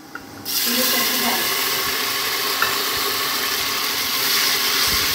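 Tomatoes tipped into hot oil with frying onions, bursting into a loud, steady sizzle about half a second in.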